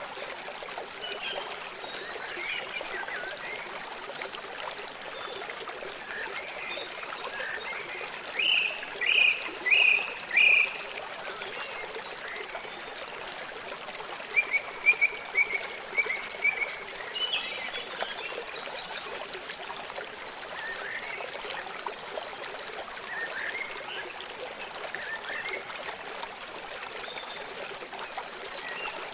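A stream trickling steadily, with birds chirping on and off in short clustered calls, loudest in a run about nine to ten seconds in.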